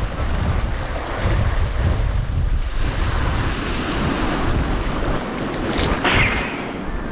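Strong wind buffeting the microphone over waves washing against the rocks of the shoreline, with a brief louder hiss about six seconds in.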